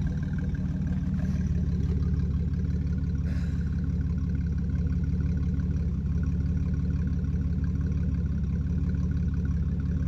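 2003 Ford Ranger V6 running steadily at idle through a straight-piped true dual exhaust with no mufflers, a loud low rumble.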